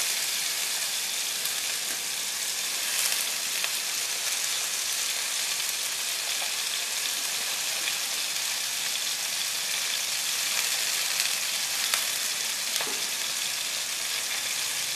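Matchstick-cut potatoes frying in hot oil in a nonstick kadai: a steady high sizzle with a few faint ticks.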